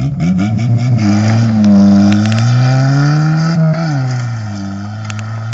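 Turbocharged Fiat Panda 1000 engine accelerating hard, its pitch rising steadily for about three and a half seconds, then falling quickly and settling to a steady run.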